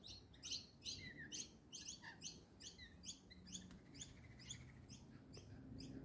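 A small bird chirping over and over, about three short, high chirps a second in an even rhythm.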